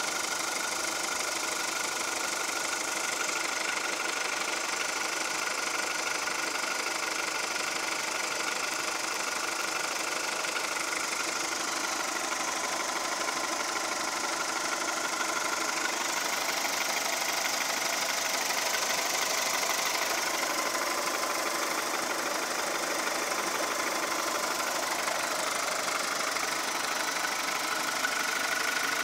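Volkswagen Golf Mk4 1.4-litre petrol four-cylinder (75 PS, 2002) running steadily with a fast, even clatter that sounds like a diesel, a noise the owner cannot explain.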